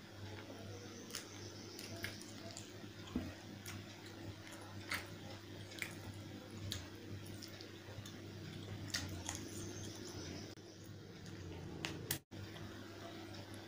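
Close-up chewing and wet mouth smacks from eating chicken curry with rice: irregular short clicks and squishes over a steady low hum, with the sound cutting out for an instant near the end.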